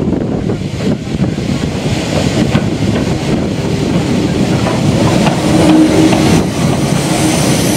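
Steam-hauled train rolling through station pointwork: wheels clattering on the rails over a steady rumble, with a steady whine from the wheels coming in about five seconds in.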